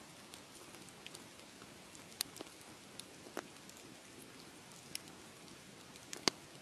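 Wood fire crackling: a steady low hiss with scattered sharp pops, the loudest a close pair near the end.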